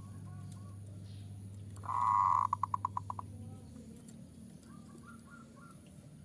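Zebra dove (perkutut) cooing: about two seconds in, a loud rolling coo that breaks into a quick run of about eight short clipped notes, with softer short coo notes repeating around it. A steady low hum runs underneath.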